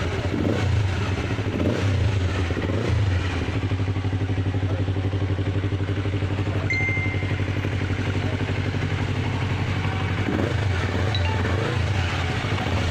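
Yamaha R25 250cc parallel-twin engine, swapped into a Yamaha Vixion motorcycle, running at a steady idle. It is blipped up and back down a few times in the first three seconds, and again about ten seconds in.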